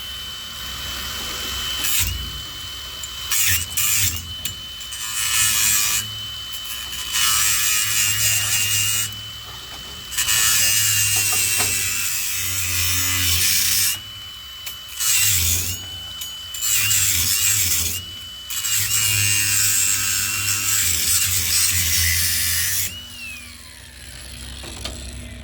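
Angle grinder with a wire wheel cleaning up fresh welds on a steel jack stand: a steady high motor whine, dipping each time the wheel bites, with bursts of harsh scratching as the brush is pressed to the metal. Near the end the grinder winds down.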